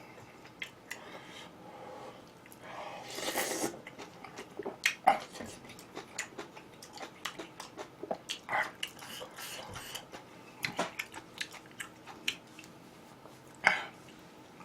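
Close-miked chewing and biting of food: irregular wet mouth clicks and smacks, with a brief breathy noise about three seconds in.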